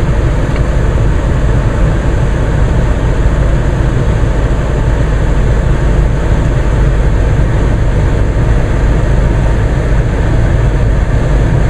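Steady sound inside the cabin of a Mercedes-Benz GLK 250 BlueTec as its four-cylinder diesel idles, not yet warmed up, with the climate blower running on max defrost.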